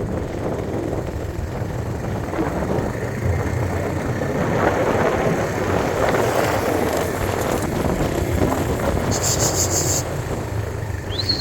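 Steady rumble of a vehicle driving on the road, with wind noise, and a brief high-pitched tone near the end.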